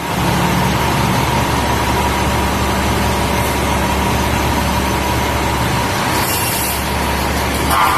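Fire truck's diesel engine running steadily, with a short hiss of air about six seconds in and a brief louder tone near the end.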